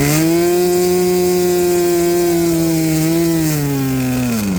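Model airplane nitro glow engine running at high revs, held steady, then throttled back and falling to idle near the end.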